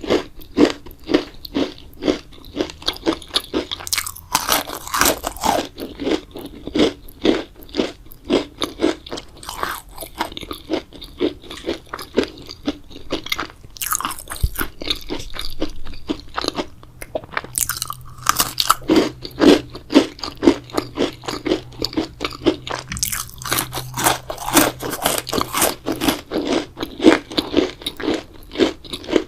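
Close-miked mouth sounds of grape jelly dessert being eaten: fast, steady chewing clicks, with a few louder bites along the way.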